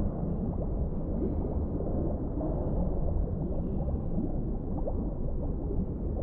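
Underwater ambience: a steady, dull low rumble of deep water, dotted with small bubbling gurgles.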